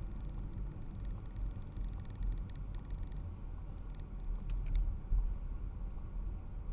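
A car driving: a steady low rumble of engine and road noise. Faint rapid ticking comes in the first three seconds, and a sharp click follows about five seconds in.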